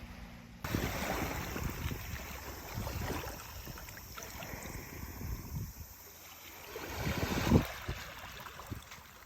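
Gusty wind buffeting the microphone outdoors, starting abruptly about half a second in, with uneven low rumbles that swell again near the end.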